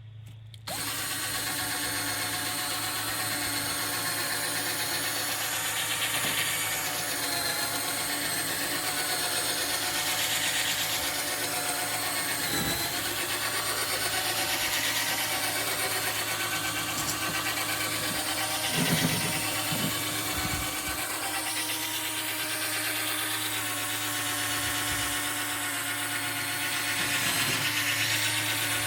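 Power drill spinning a 1200-grit sanding disc against a fogged plastic headlight lens. It starts under a second in and then runs steadily at an even speed.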